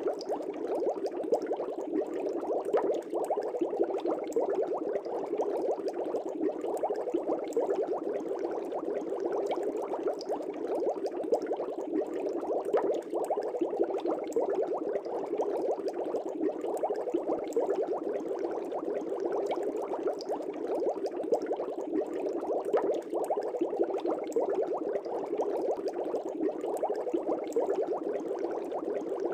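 Air bubbles streaming up through fish-tank water: steady, dense bubbling with many small pops.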